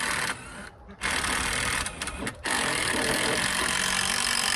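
Cordless impact driver hammering as it backs screws out of a wooden frame. A short burst comes at the start, then another about a second in with brief stops, and from about two and a half seconds in it runs without a break.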